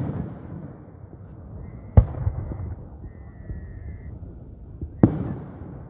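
Fireworks shells bursting: three sharp booms, the second about two seconds after the first and the third about three seconds later, each trailing off in a low rumble.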